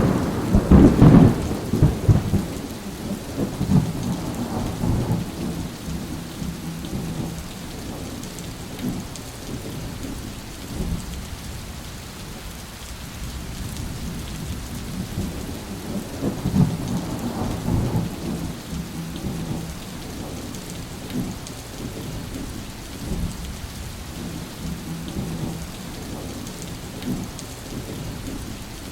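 Thunderstorm: steady rain with thunder. A loud thunderclap comes right at the start and rumbles away over about five seconds, and a second, softer roll of thunder comes a little past the middle.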